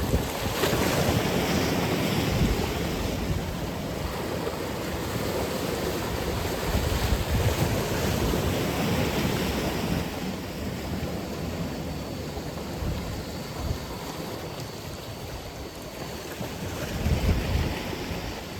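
Atlantic Ocean waves breaking and washing ashore, with wind buffeting the microphone. The surf is louder in the first half, eases off about halfway through and swells again near the end.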